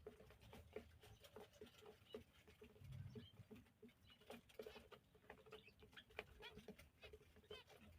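Faint, quick chirps from small cage birds, mixed with many light clicks and patters.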